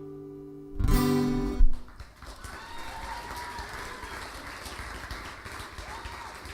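Acoustic guitar ending a song: a held chord fading out, then a last strummed chord about a second in that is damped after under a second. The audience then claps steadily.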